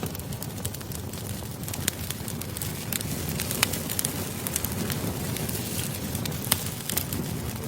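Campfire crackling: a steady low rush of burning wood with frequent, irregular sharp snaps and pops.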